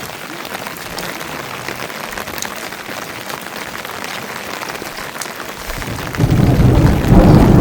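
Steady rain falling, a patter of many small drops. About six seconds in, a much louder and deeper noise swells up.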